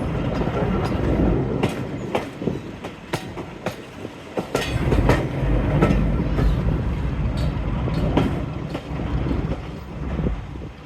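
Diesel-hauled passenger train running over jointed track: wheels clicking over the rail joints in irregular runs, with a steady low rumble underneath.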